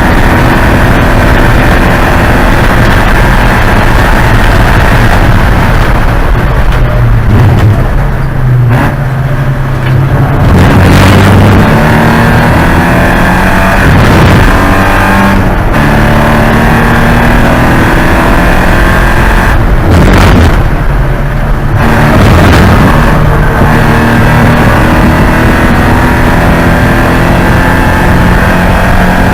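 Porsche 944 Spec race car's four-cylinder engine at full racing load, its revs climbing through the gears and falling twice as the throttle is lifted, about a third of the way in and again about two thirds in.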